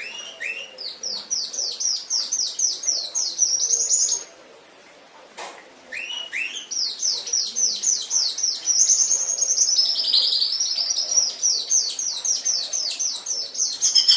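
Domestic canary singing two long phrases, each a run of rapid, evenly repeated high sweeping notes, about four a second. The second phrase begins after a pause of about two seconds and dips lower in pitch partway through.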